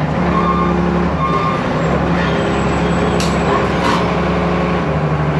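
Heavy diesel machinery running steadily, with short repeated beeps in the first second and a half and two sharp metallic clicks a little after the middle.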